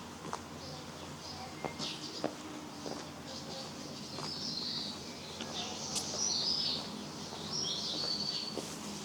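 Spring birdsong from several small birds: short chirps and warbled phrases, busiest in the second half, over a low steady background with a few faint clicks.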